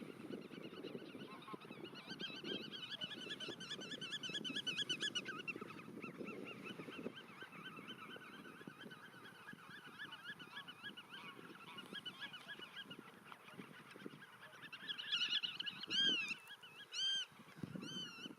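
Black-tailed godwits calling: fast, nasal, repeated calls in long runs, then a few louder separate calls near the end.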